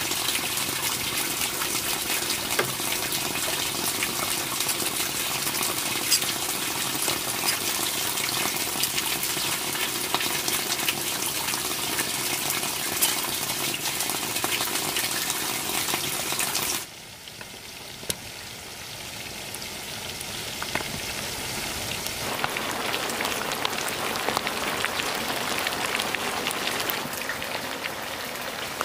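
Pork fat sizzling and crackling as it renders into lard in a pan: a dense hiss with scattered pops. It cuts off abruptly about 17 seconds in to a quieter hiss, and a fuller sizzle returns about 22 seconds in.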